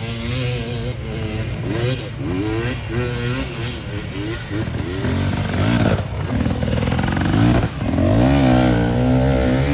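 Off-road racing engines revving hard, their pitch rising and falling with each throttle change and gear shift. The loudest stretch is near the end, where one engine holds a high, steady note for about two seconds.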